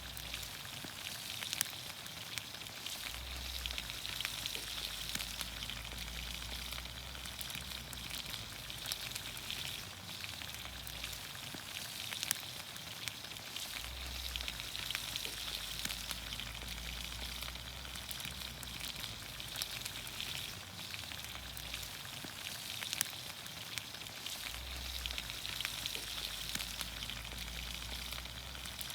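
Green beans, onions, carrots and potatoes sizzling in olive oil over a campfire: a steady frying hiss with frequent small pops and crackles.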